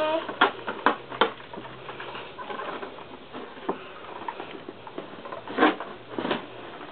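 Handling noise as a toddler works her juice cup out of a container: a few sharp taps and knocks in the first second or so, light scattered rustling, then two louder scrapes near the end.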